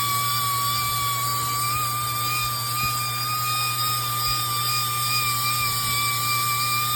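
A small motor or power tool running at a steady speed with a high, even whine.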